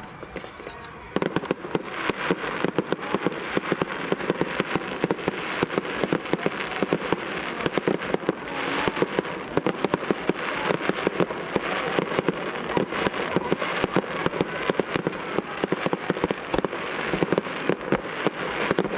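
Fireworks display: about a second in, a dense, continuous crackle of many rapid pops starts and keeps going.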